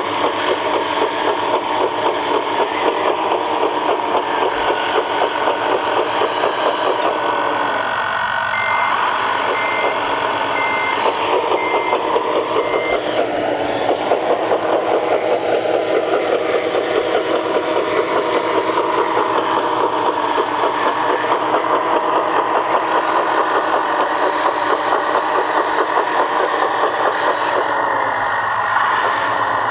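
Scale RC construction machine playing a simulated diesel engine sound, running steadily with a pulsing beat and rising and falling in pitch around the middle. A short series of about five reversing beeps sounds about nine to thirteen seconds in.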